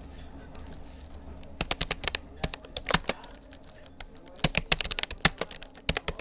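Typing on a Rapoo computer keyboard: fast runs of keystroke clicks, with pauses of about a second between them.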